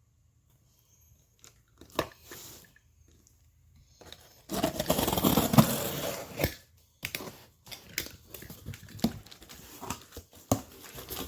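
A cardboard shipping box being opened and its packing pulled out. There is a loud stretch of tearing and crinkling about halfway through, then scattered crackles and knocks.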